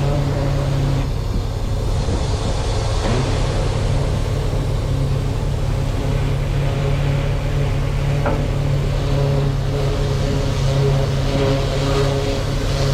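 Kenworth semi truck's diesel engine running steadily at an even speed.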